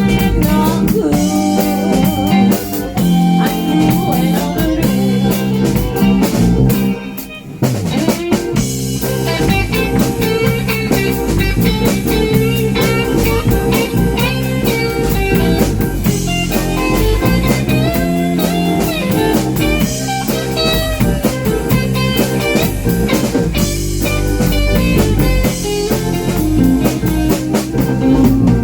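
Live blues band playing an instrumental break: lead guitar soloing over bass and a drum kit keeping a steady beat, with a brief drop in level about seven seconds in.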